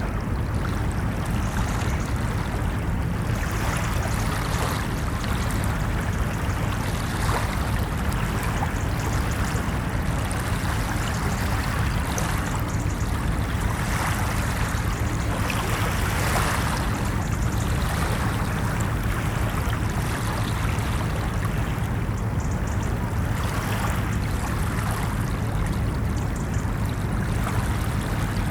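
Ocean waves washing onto a beach: a steady rushing surf over a deep low rumble, swelling brighter every few seconds as waves break.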